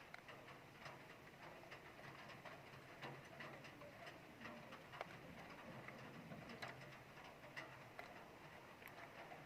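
Faint, steady rain falling, with many scattered sharp ticks of drops striking a surface.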